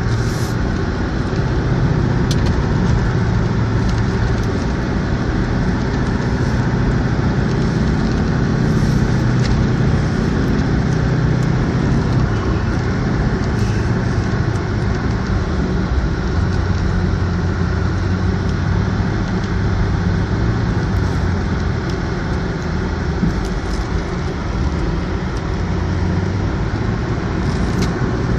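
A motor vehicle driving: a steady engine drone under continuous road noise, the engine note shifting in pitch a few times.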